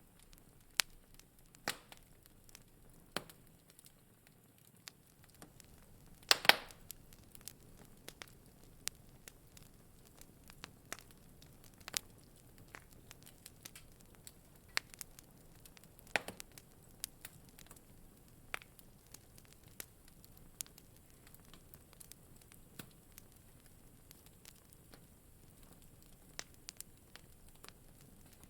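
Wood fire in a fireplace crackling: irregular sharp pops and snaps over a faint steady hiss, with a louder cluster of pops about six seconds in and another at about sixteen seconds.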